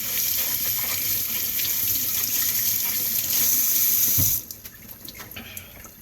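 Kitchen tap running into a sink as cabbage leaves are rinsed under it; the water is shut off about four and a half seconds in, leaving a few small knocks.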